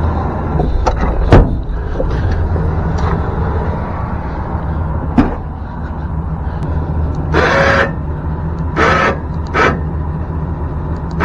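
Chevrolet Silverado's 8.1-litre Vortec V8 running steadily while the truck is used as a forklift. A sharp clunk comes about a second in, and there are two short scraping bursts later on.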